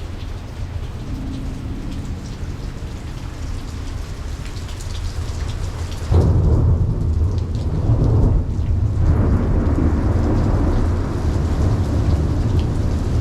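Steady rain falling, then about halfway through a sudden clap of thunder that goes on as a loud, low rumble to the end.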